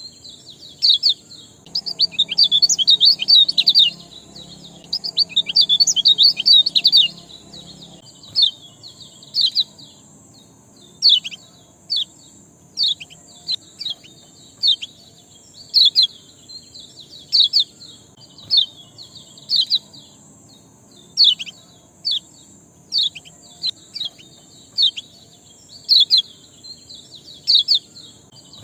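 A small songbird giving sharp 'ciak' chirps, one every second or so, breaking into two quick runs of rapid chirping in the first seven seconds, over a steady high whine.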